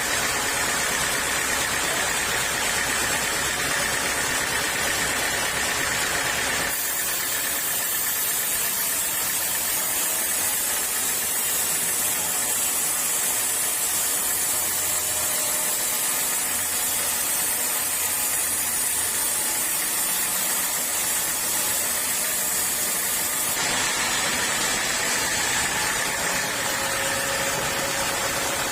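Sawmill machinery running steadily. About seven seconds in, the sound switches abruptly to a brighter, hissier noise with less low rumble, and it switches back just as abruptly near the end.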